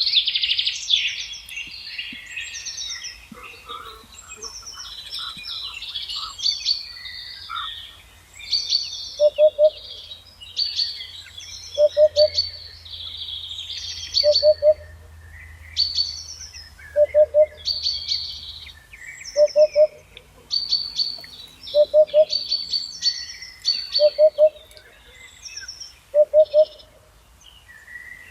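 Several songbirds singing, with overlapping high twittering and chirping songs. From about nine seconds in, a low two-note call repeats roughly every two and a half seconds beneath them.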